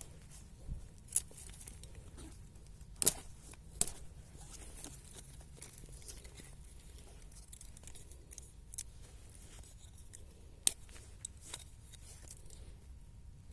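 Hand work with a knife: quiet scraping and handling, broken by a few sharp clicks and snaps at irregular intervals, the loudest about three seconds in and again near eleven seconds.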